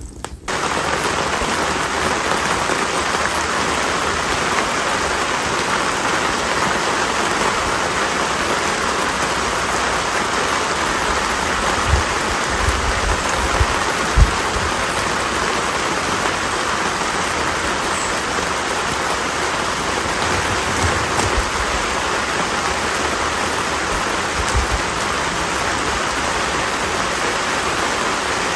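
Steady, even hiss of rain, starting abruptly just after the start, with a few low thumps around the middle.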